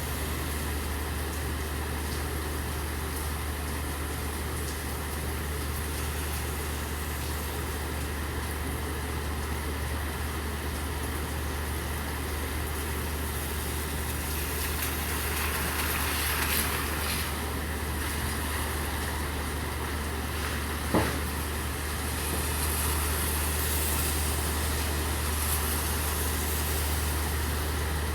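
Steady rain hiss over a constant low hum. A swell of hiss comes about halfway through, and a single sharp knock about three-quarters of the way in.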